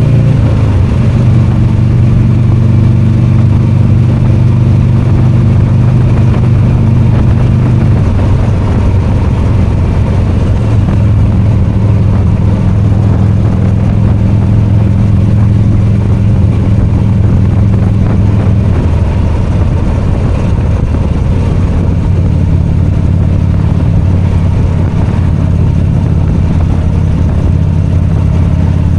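V-twin motorcycle engine running steadily under way. Its note drops a little about eight seconds in and again about two-thirds of the way through.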